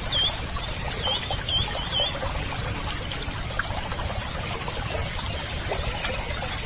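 Running water pouring or trickling steadily. Over it, five short high chirps sound in the first two seconds.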